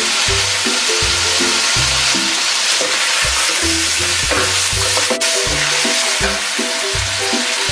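Chicken pieces and sliced onions sizzling in hot oil in a stainless steel pot, stirred with a wooden spoon, with one sharp click about five seconds in. Background music plays underneath.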